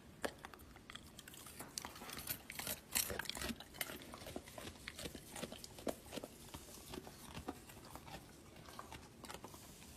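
Chewing with a dense, irregular run of crisp crunches, typical of a pet crunching food.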